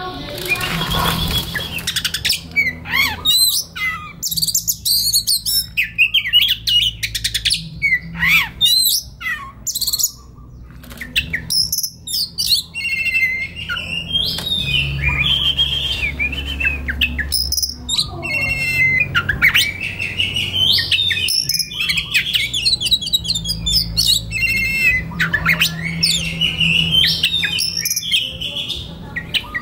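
Oriental magpie-robin (kacer) singing a varied, continuous song of quick chirps, whistled glides and rapid trills, with a low steady hum beneath.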